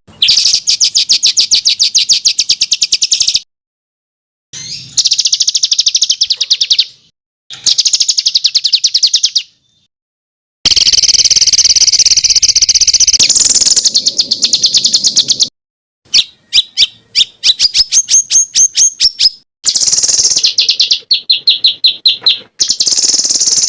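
A songbird singing about six phrases of rapid, repeated high notes and trills, each phrase ending abruptly in a short silence.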